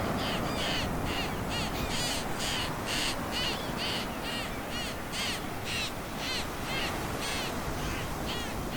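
Juvenile red-billed chough begging, giving a rapid, unbroken string of short, harsh calls, about three a second, as an adult forages to feed it.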